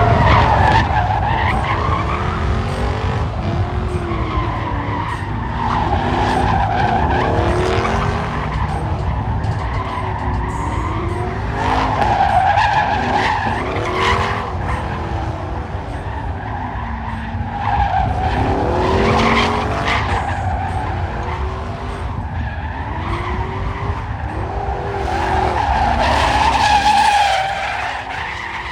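Car engine revving up and down over and over, with tyres squealing and skidding, as in a burnout or donut run; the loudest swells come about halfway through and near the end.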